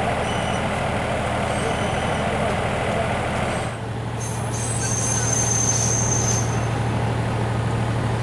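Passenger train running, with a steady low engine hum and rumble. From about halfway, thin high-pitched metallic squeals from the wheels on the rails come in.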